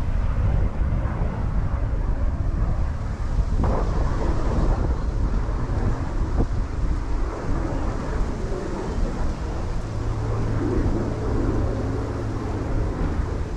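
Wind buffeting the microphone in gusts, a heavy low rumble, with a low steady hum joining about ten seconds in.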